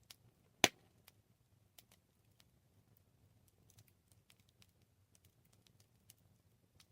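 Wood campfire crackling: scattered small snaps and ticks over a faint low rumble, with one loud pop under a second in.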